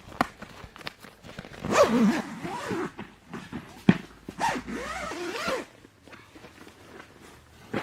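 A zipper being pulled in two long strokes, about two seconds in and again about four and a half seconds in, with scattered clicks and knocks of handling between them.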